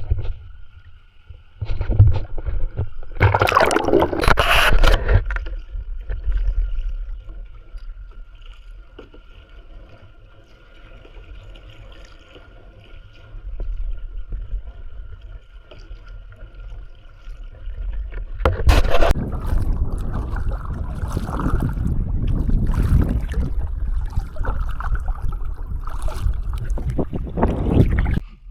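Small boat under way: a steady low rumble with a faint steady whine, overlaid with rushing wind and water noise. The wind and water are loudest briefly about three seconds in and again from about eighteen seconds on.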